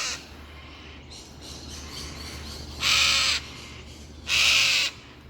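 Agitated cockatoo giving harsh screeching calls, a typical sign of a parent bird defending its nest from a climber. One call ends just as the sound begins, and two more come about 3 and 4.5 seconds in, each about half a second long.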